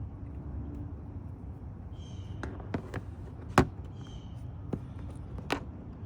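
Plastic push-pin fasteners being pried out of a plastic trim panel with a fastener remover: a string of sharp clicks and snaps, the loudest about halfway through, over a steady low background rumble.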